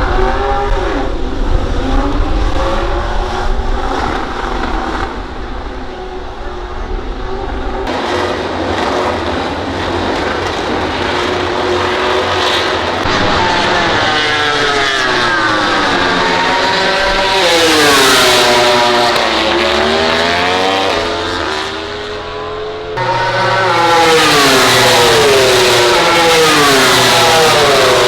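MotoGP racing motorcycles, 1000 cc four-stroke prototypes, running at high revs on the track. Their engine pitch sweeps up and down as they accelerate, shift and pass. The loudest passes come in the second half.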